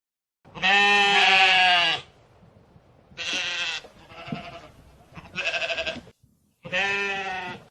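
Bleating livestock: four loud bleats, the first and longest about half a second in, and one near the middle with a wavering, pulsing tone.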